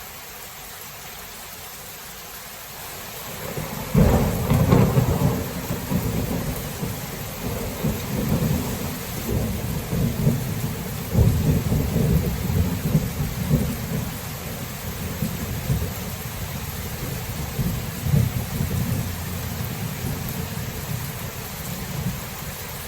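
Steady rain hiss. About four seconds in, a thunderclap breaks into a long rolling rumble of thunder that swells again a few times and slowly dies away.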